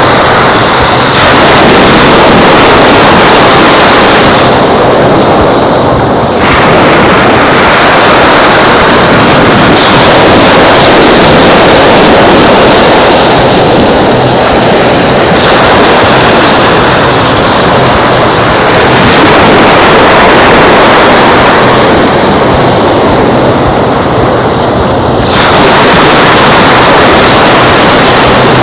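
Wind rushing over the microphone on top of breaking surf, a loud steady roar whose hiss swells and drops abruptly every few seconds.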